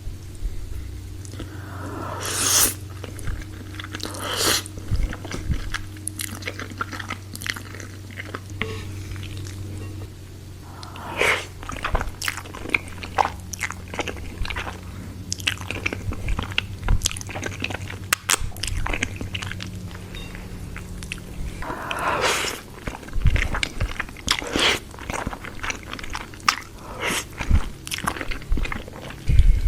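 Close-miked eating: repeated biting and chewing with crisp crunches and wet mouth clicks, over a steady low hum.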